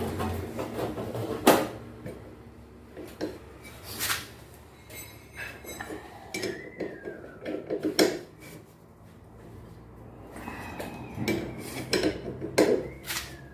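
Metal tools and washing-machine parts clinking and knocking as they are handled and fitted, with a few sharp strikes at irregular intervals.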